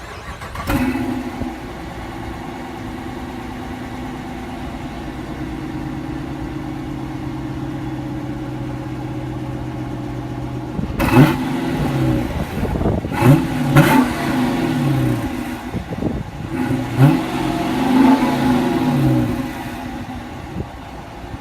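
2016 Dodge Challenger R/T's 5.7-litre HEMI V8 on its stock factory exhaust, starting cold about a second in and settling into a steady fast idle. In the second half it is revved about five times in quick blips, each rising and falling in pitch, then drops back to idle near the end.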